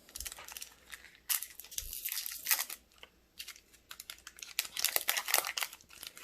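A foil trading-card booster pack crinkling and tearing as it is opened and handled, in irregular short rustles with brief pauses.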